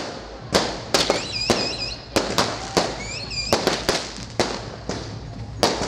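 Fireworks going off in quick, irregular succession, a sharp bang or crack roughly every half second. A high warbling whistle sounds twice in the middle.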